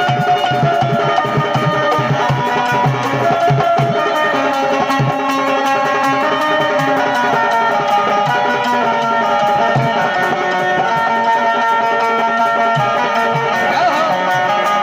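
Instrumental break in an Indian folk song: a hand drum plays a quick rhythm under a sustained melody line, with the drum strokes thinning out after about four seconds.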